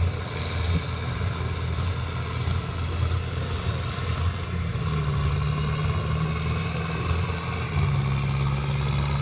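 Tractor engine running hard under load as it drags a pulling sled, its note stepping up in pitch about five seconds in and again near the end.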